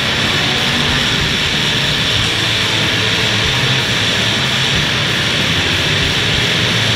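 Demolition derby car engines running loud and steady, with no distinct crashes.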